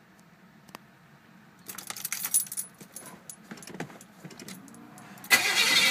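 Keys jangling at the ignition, then about five seconds in a newly rebuilt, not yet broken-in Chevy 350 small-block V8 with headers starts and runs loud and steady.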